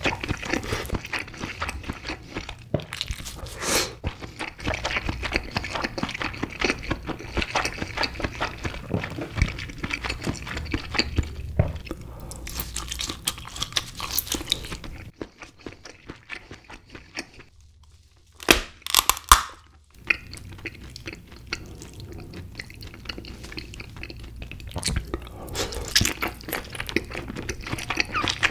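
Close-miked ASMR eating sounds: chewing king crab meat with a steady run of crunchy crackles. A quieter stretch past the middle is broken by two loud, sharp sounds, then the crackly chewing resumes.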